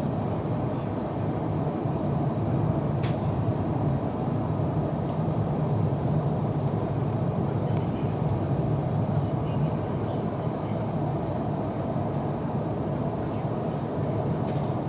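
Steady in-flight cabin noise of an Airbus A350-900: an even rumble of airflow over the fuselage and the Rolls-Royce Trent XWB-84 engines. A faint click comes about three seconds in.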